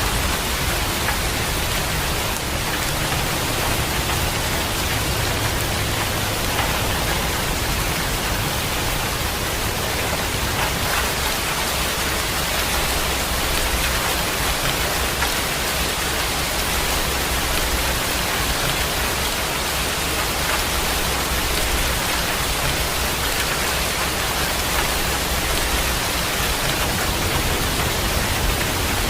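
Heavy rain falling steadily: an even, unbroken hiss of downpour with a low rumble beneath it.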